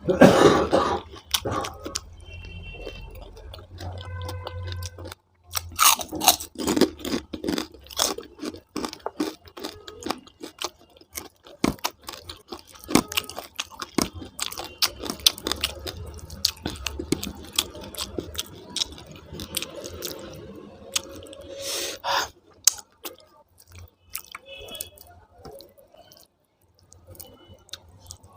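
Close-up mouth sounds of someone eating rice with potato curry: irregular wet chewing and smacking clicks, with a few louder bursts.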